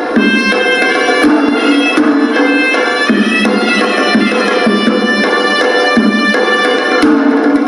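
Hewisi temple music: a horanewa, a nasal double-reed pipe, plays a winding melody over traditional Sri Lankan drums beaten in a steady rhythm.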